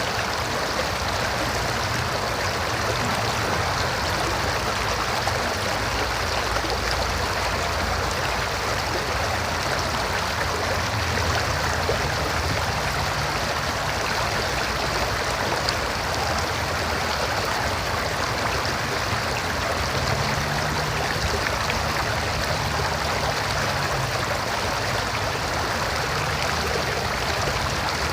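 River water flowing steadily, an even rushing sound without pause.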